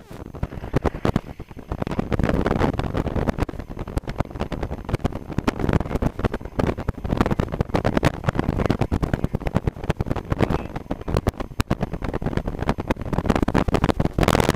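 Small airplane's piston engine idling on the ground, heard from inside the cabin as a steady, fast pulsing.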